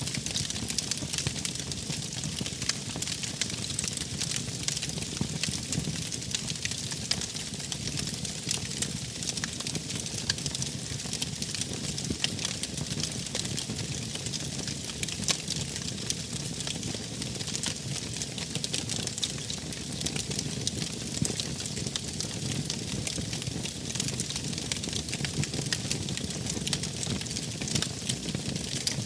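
Wood fire crackling steadily, with many small pops and snaps over a low rumble.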